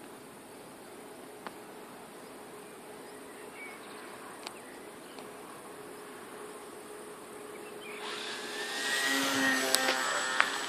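Self-built radio-controlled Mustang model plane droning in flight, a thin insect-like buzz at a distance. About eight seconds in it grows louder as it comes closer.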